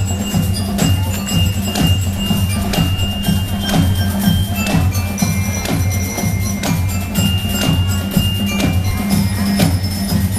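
Marching showband playing: drums and sharp percussion strikes keep a steady beat under a repeating low pulse, with short, high, bell-like notes ringing over the top.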